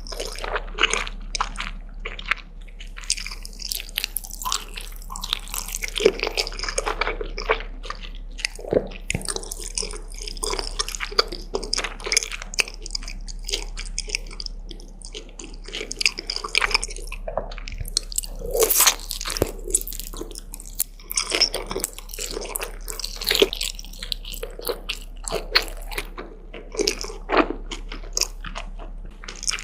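A person eating close to the microphone: a continuous, irregular run of crunchy bites and chewing, several sharp crunches a second.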